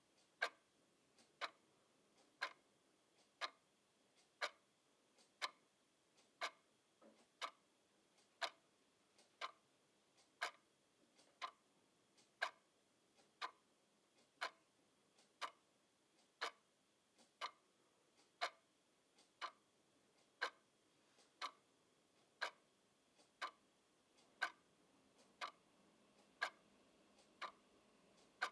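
Clock ticking steadily, about one sharp tick a second, with a fainter click between each pair.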